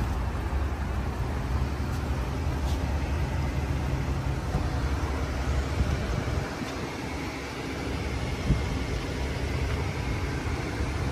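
A 2022 Chevrolet Suburban's engine idling with a steady low rumble, with one brief knock about eight and a half seconds in.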